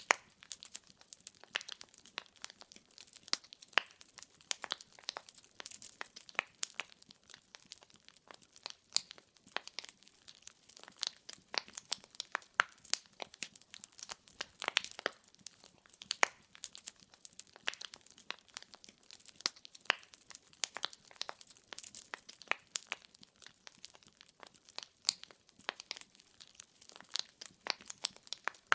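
Burning firewood crackling and popping in a fireplace: dense, irregular sharp pops over a faint hiss.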